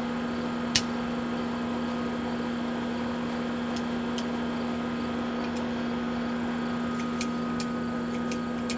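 Air conditioner unit humming steadily, with one short click about a second in and a few faint ticks scattered through the second half.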